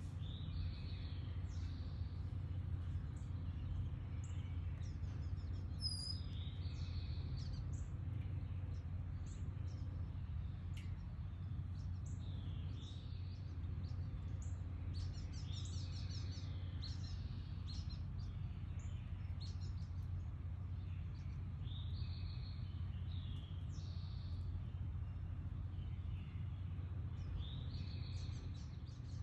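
Several small songbirds chirping and singing in short, repeated phrases over a steady low background hum.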